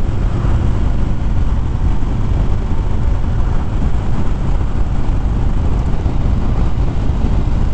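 Steady rush of riding wind over a helmet-mounted microphone, heavy in the low end, with the drone of a Harley-Davidson Fat Bob's V-twin engine underneath at a constant cruising speed.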